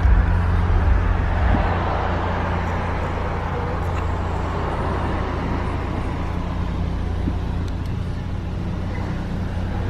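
Steady rumble and hiss of road noise from a moving vehicle.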